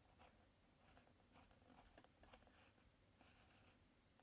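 Near silence: faint room tone with a few soft, scratchy ticks scattered through it.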